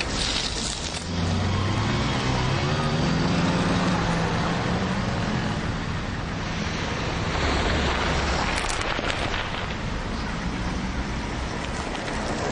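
Road traffic: cars driving past on a city street. About a second in, one engine's note climbs as it pulls away.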